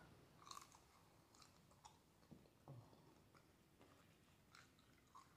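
Faint chewing: scattered soft mouth clicks and smacks of someone eating, over near silence.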